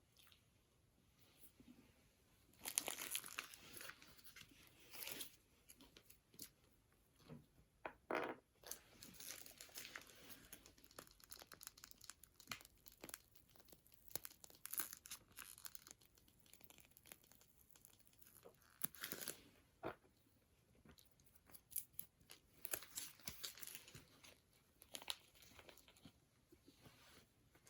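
A crunchy, crusty scone being torn apart and eaten: irregular crunching and crumbly crackling in short bursts, with quiet gaps between, the loudest about three seconds in.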